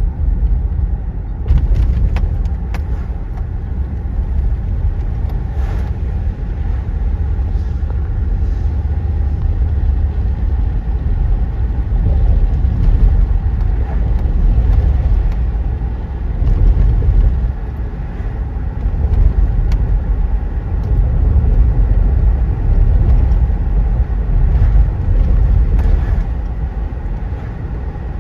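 Freight train with diesel locomotives giving a steady low rumble that swells and dips, with a few sharp knocks in the first few seconds.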